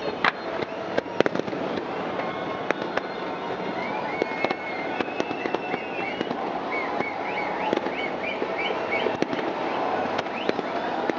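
Fireworks display: many irregular sharp bangs and crackles over a continuous din, with a run of short high whistles through the middle.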